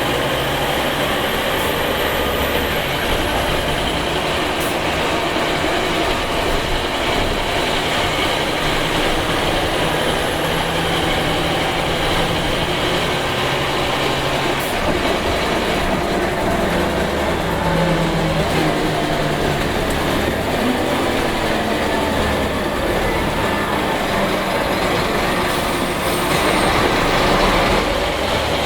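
Scania K270IB bus's rear-mounted 8.9-litre five-cylinder DC9 turbo diesel running under way, its engine note rising and falling over steady road noise.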